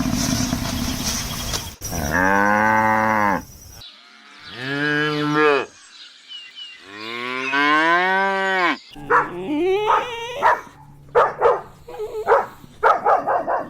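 A rough, noisy sound that cuts off about two seconds in. Then cattle mooing: three long moos, the last rising and then falling in pitch, followed by a run of short, quick calls.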